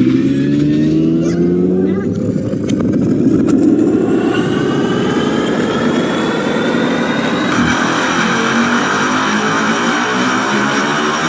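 Recording made about 300 feet beneath ancient ice: many overlapping tones all sliding slowly upward in pitch, with a few sharp clicks between about two and four seconds in. Past the middle a denser layer of higher rising tones joins in.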